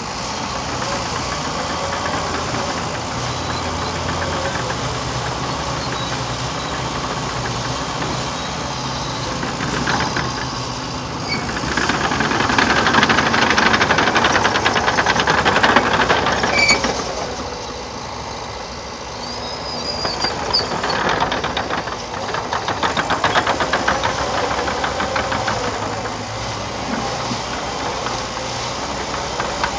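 Liebherr PR 726 crawler dozer at work, its diesel engine running under load with the tracks clattering. The noise swells for several seconds in the middle, followed by a few brief high squeaks.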